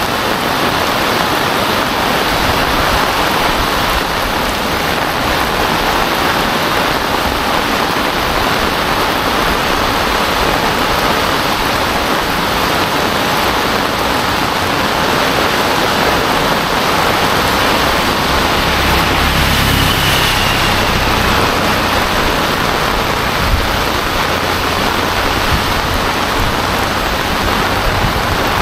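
Heavy rain pouring steadily onto a paved road and banana leaves, an even hiss. A low rumble rises briefly a little past the middle.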